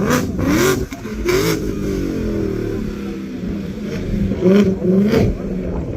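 Truck engine revving hard again and again during a burnout, its pitch rising and falling, with several short sharp bursts of noise between the revs.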